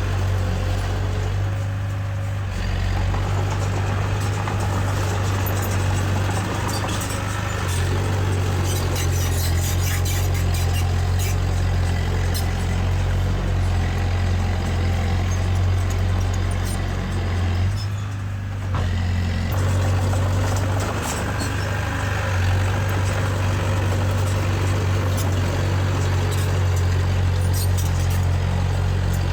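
Diesel engine of heavy earthmoving machinery running steadily under load, with scattered metallic clanks and rattles. The engine sound dips briefly about two-thirds of the way through.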